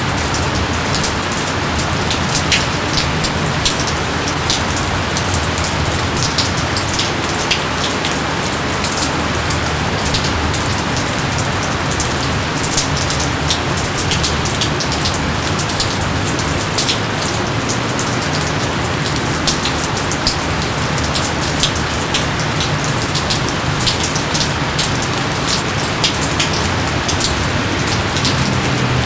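Steady heavy rain, an even hiss with many sharp individual drop impacts scattered through it.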